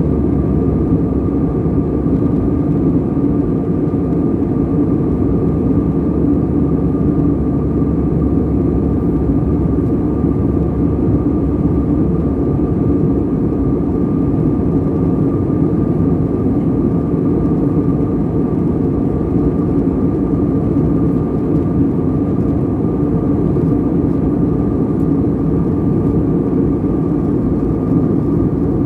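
Airliner cabin noise in flight: the steady, even drone of the engines and rushing air, with a faint steady hum above the low rumble.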